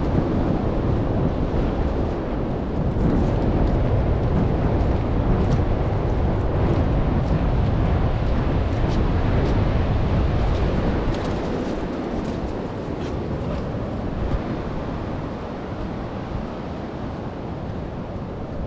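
Wind buffeting the microphone with surf washing on the beach, a steady deep rumble that eases off somewhat about two thirds of the way through.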